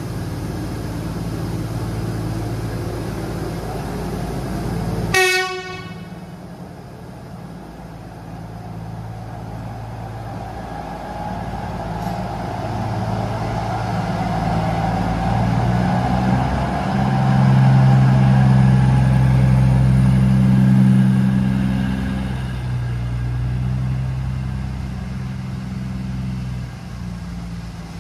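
Batara Kresna diesel railbus running with a steady low engine hum, sounding one short horn blast about five seconds in. Its engine then rises in pitch and loudness as the train pulls away, loudest about two-thirds of the way through, then fading.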